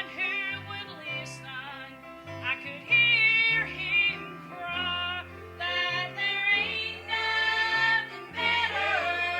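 Gospel special music: a singer holding long, wavering notes over an instrumental accompaniment with a bass line that changes note every second or so.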